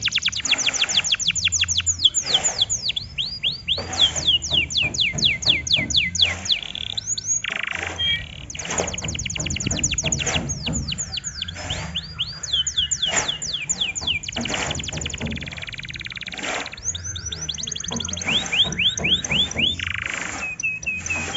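Domestic canary singing: long rapid trills of quickly repeated high notes, the note shape and speed changing every second or two from one trill to the next.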